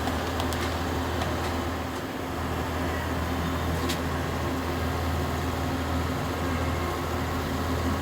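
A steady low machine hum, with a few light clicks about half a second in and again near four seconds.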